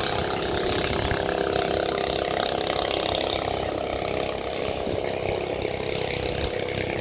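Long-tail boat's engine running steadily at speed, with a rushing hiss over it. The engine note eases slightly about halfway through.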